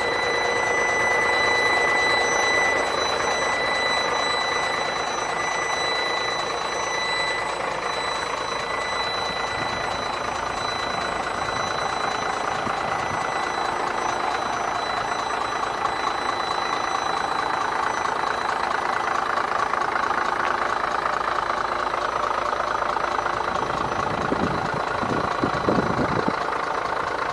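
Scania P94 truck's nine-litre six-cylinder diesel engine running steadily. A steady high-pitched tone sounds over it for the first several seconds, and there are a few low knocks near the end.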